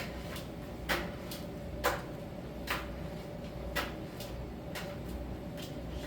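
Miele T1 heat-pump dryer running in its drying phase: a steady low hum with a faint steady tone, and sharp clicks about once a second as the load tumbles against the turning drum.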